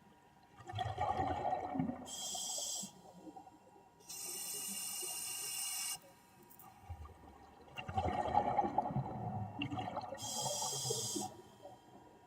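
Scuba diver breathing through a regulator underwater: bursts of bubbling and gurgling as exhaled air leaves the regulator alternate with the hiss of the demand valve on each inhalation, about two breath cycles.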